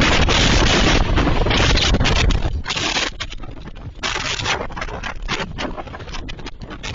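Violent storm wind buffeting the microphone in loud, irregular gusts, with a heavy rumbling low end that eases about two and a half seconds in into choppier surges and brief dropouts.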